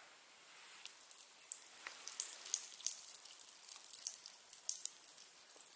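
A water tap giving only faint, irregular drips and spatters. It is just the leftover water in the pipes, not a running supply.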